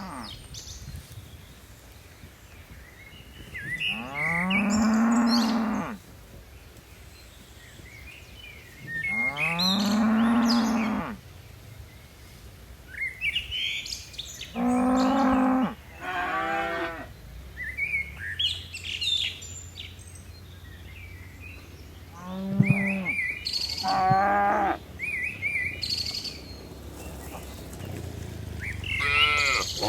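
Cattle mooing, about seven separate calls of one to two seconds each, some low and drawn out and others higher-pitched, with small birds chirping between them.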